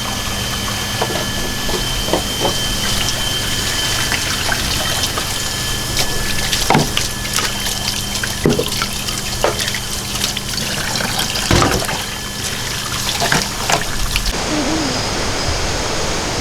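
Running, trickling water with scattered drips and splashes over a steady faint hum; the sound changes abruptly about fourteen seconds in.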